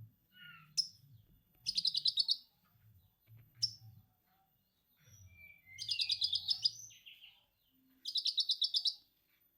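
Lovebird ngekek: rapid chattering trills, each under a second long, heard three times, with short sharp chirps and a few whistled notes between them.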